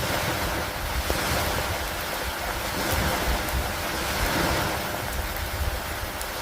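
Steady rain with wind over it and a low rumble underneath, the whole wash swelling and easing every couple of seconds.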